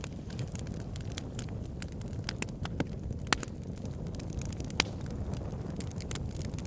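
Wood fire burning in a fireplace: steady low rumble of the flames with irregular crackles and sharp pops from the burning wood, two louder pops in the middle.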